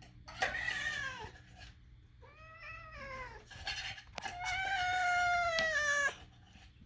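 Domestic cat giving three drawn-out meows, the last one the longest at about two seconds, each sliding down in pitch at its end.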